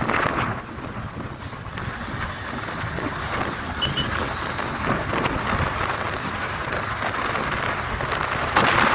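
Wind rushing over the microphone and road noise from a moving motorcycle, a steady noisy rush that grows louder near the end.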